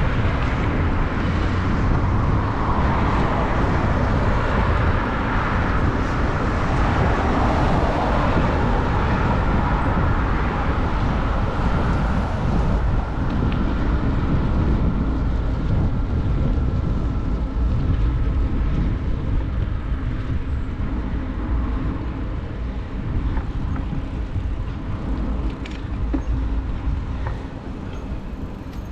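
Road traffic noise and wind rush on the microphone of a moving bicycle, a steady low rumble with a louder passing whoosh in the first several seconds that fades by about ten seconds in.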